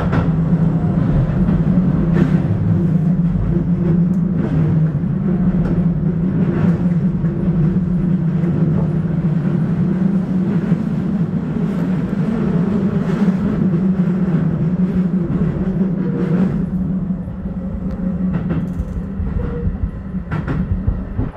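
Electric commuter train running, heard from inside its rear cab: a steady low hum of the running train, with the wheels clacking over rail joints every few seconds.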